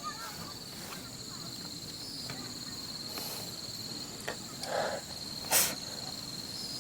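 Insects chirring steadily at a high, even pitch. A few light clicks and a brief rustle come near the end, and then one sharp click or knock, the loudest sound.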